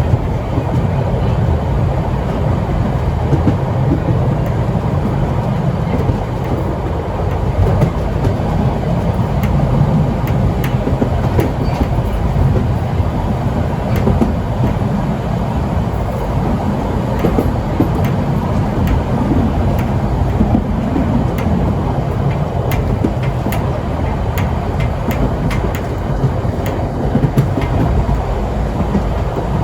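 Historical steam train running along the track: a steady rumble, with scattered sharp clicks of the wheels over the rails.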